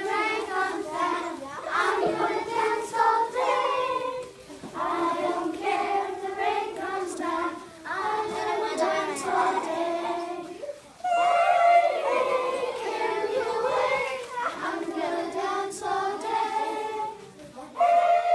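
A group of children singing together in unison, line after line with short breaks between phrases.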